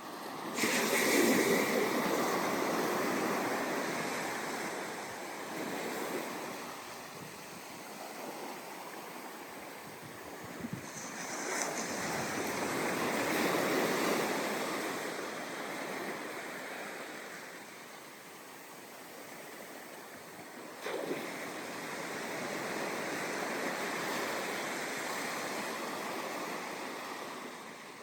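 Ocean waves breaking on a sandy beach and washing up the shore in slow surges. One wave breaks suddenly about a second in, another builds around the middle, and a third breaks sharply about three-quarters through, followed by a long wash.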